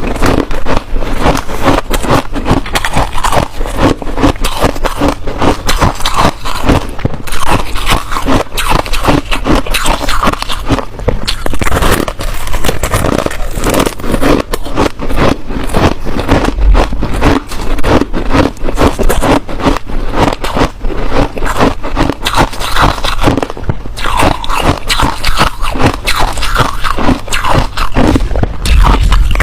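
Hard ice being bitten and chewed close to the microphone: dense, continuous crunching and crackling with no pauses.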